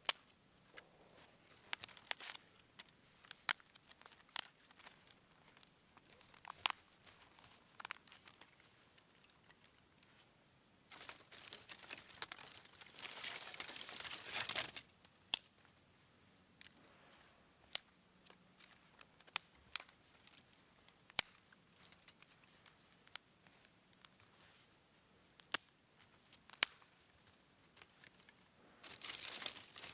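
Crinkling and rustling of handled material, with scattered sharp clicks and a longer stretch of rustling about eleven to fifteen seconds in.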